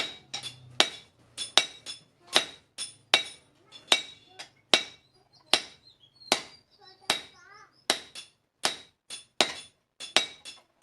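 Hand hammer striking steel on an anvil, about one to two blows a second at an uneven pace, each blow leaving a bright metallic ring: blacksmith forging truck spring steel.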